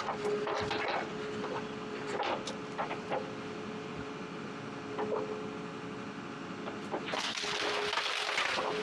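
Log forwarder running steadily while its grapple handles brush, with scattered cracks and snaps of breaking branches and a louder rush of crunching wood about seven seconds in.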